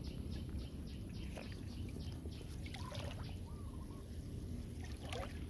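Water splashing and trickling, with a series of short crackling splashes in the first half, a low steady rumble underneath, and a few brief chirps.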